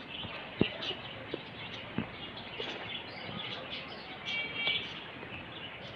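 Faint birds in a pigeon loft: a few soft knocks, and a short high chirp about four seconds in.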